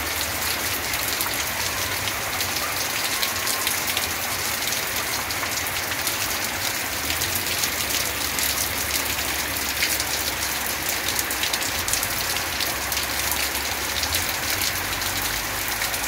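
Steady rain falling on clay roof tiles, paving stones and wet steps: an even hiss thick with the fine patter of drops.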